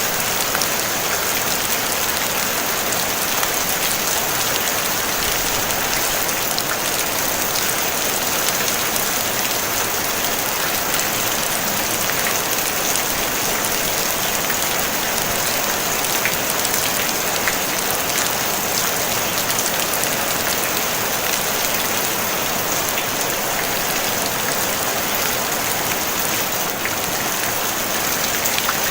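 Steady rain falling on a tin roof: a dense, even patter of drops with no thunder.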